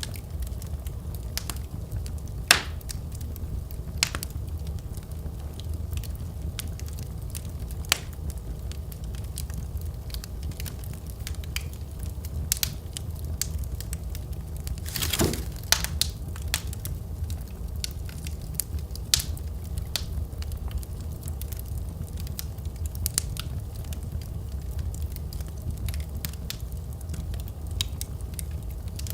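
Wood fire crackling in a fireplace: a steady low rumble of flame with scattered sharp pops and snaps, the loudest pop about two and a half seconds in and a brief flurry of crackles about halfway through.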